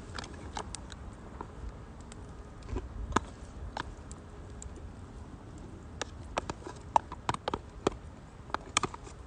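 Firewood crackling in a campfire stand: irregular sharp pops, a few at first and then a quicker cluster in the second half, over a low steady rumble.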